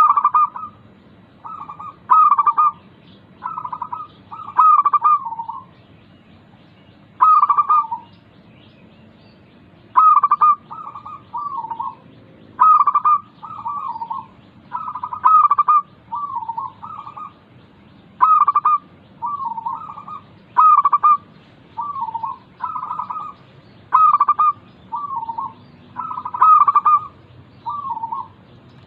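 Local zebra doves (perkutut) cooing: short phrases of quick rolling coos, repeated every second or two. It is a lure recording (pancingan) played to prompt caged perkutut that are reluctant to sing.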